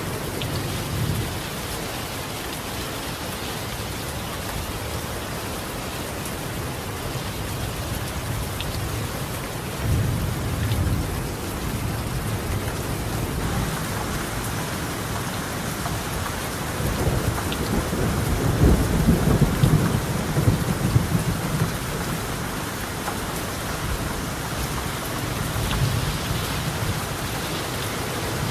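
Steady rain falling on a tiled roof, with rolls of thunder: a short rumble about a third of the way in and a longer, louder one past the middle.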